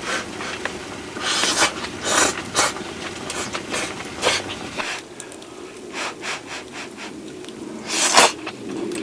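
Irregular rubbing and scraping strokes, a handful of short ones and a louder, longer one near the end.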